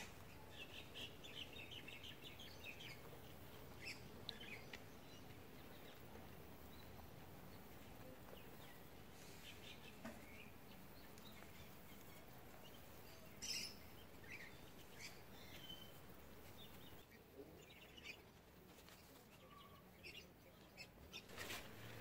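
Near silence with faint bird chirps, plus occasional soft ticks and rustles from hands working loose soil, one slightly louder click about halfway through.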